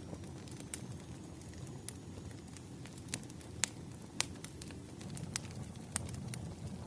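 Wood fire crackling: a steady low rush of burning logs with scattered sharp pops and snaps, the loudest a little past halfway.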